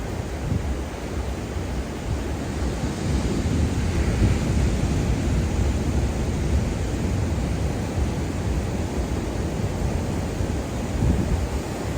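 Ocean surf washing onto a beach, a steady hiss that swells a few seconds in, with wind rumbling on the microphone.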